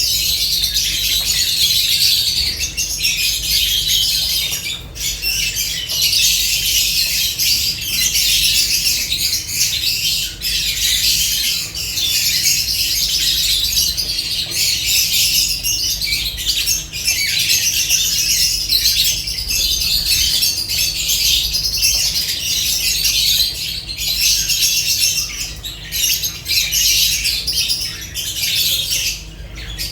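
Several lovebirds chattering and squawking without a break: a dense stream of high-pitched chirps and squawks.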